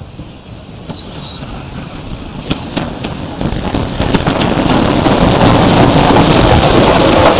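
Steam locomotive drawing near, its noise building steadily and getting much louder over the last few seconds, with a few sharp clicks early on.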